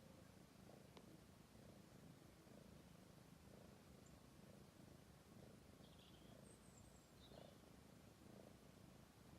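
Domestic cat purring steadily, swelling about once a second with its breathing. A few faint high bird chirps come in about six to seven seconds in.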